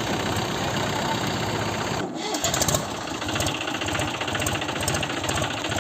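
Tractor diesel engine running with a steady clattering pulse, dipping briefly about two seconds in.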